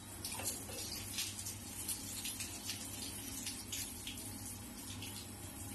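Water spattering steadily onto a landscape light fixture and its glass lens, with many small irregular drip taps: a simulated rain test of the waterproof fixture.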